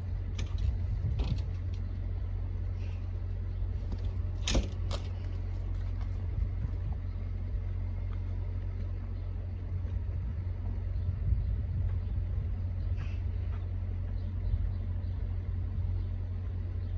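Semi truck's diesel engine running with a steady low rumble, with a few sharp clicks and knocks, twice close together about four and a half seconds in.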